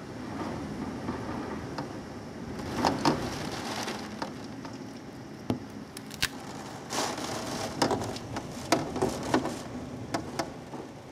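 Rain falling steadily, with irregular sharp taps and clicks over it, clustered near the middle and the end.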